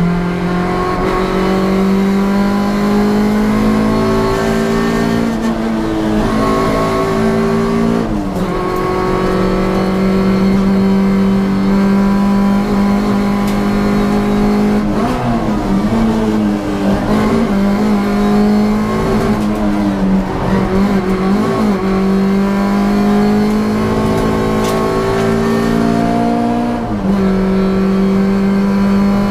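Hyundai Getz hillclimb car's engine running hard, heard from inside the cabin: the revs climb steadily and fall back sharply at gear changes about eight seconds in and near the end, and waver up and down for several seconds in the middle.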